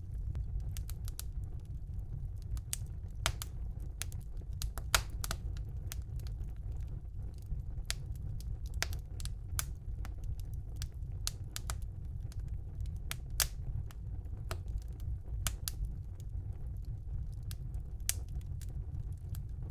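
Fire burning in a fireplace, crackling with irregular sharp pops over a steady low rumble; a couple of pops stand out louder, about five and thirteen seconds in.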